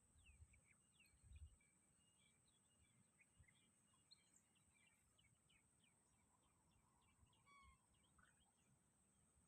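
Faint birdsong: many small birds chirping in short, quick notes, over a steady thin high-pitched tone. A few low thumps in the first second and a half.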